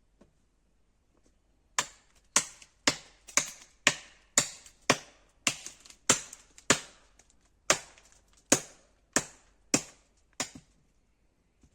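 Chopping wood with an axe: about fifteen sharp blows at roughly two a second, with a short pause partway through.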